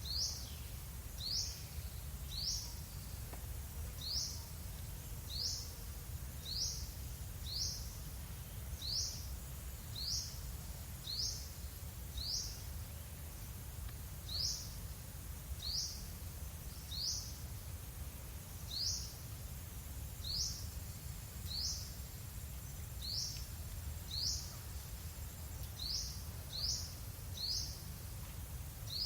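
A bird repeating a single short, high chirp that sweeps quickly downward, roughly once a second, over a steady low background rumble.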